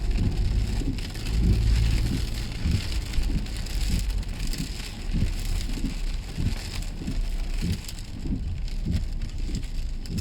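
Heavy rain beating on a car's roof and windscreen, heard from inside the car, over the low rumble of the car driving.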